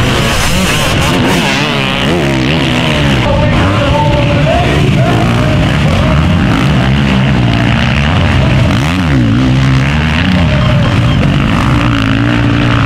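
Several motocross motorcycles racing, their engines revving up and down in overlapping pitches as they accelerate and shift.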